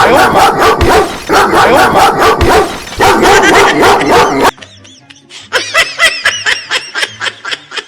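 Recorded dog barking, several dogs in a loud, rapid, dense run, played as a fake-bark prank sound. It cuts off abruptly about four and a half seconds in, and quieter background music with a steady low beat follows.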